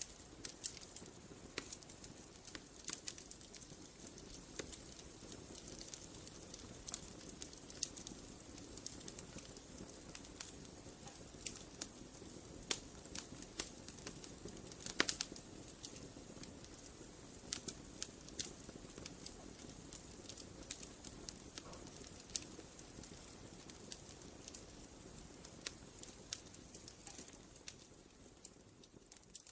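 Wood campfire crackling: irregular sharp pops and snaps over a soft steady rush, fading out near the end.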